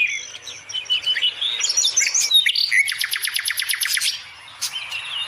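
Pet budgerigars chirping and warbling, with a fast rattling trill lasting about a second partway through and a short lull shortly before the end.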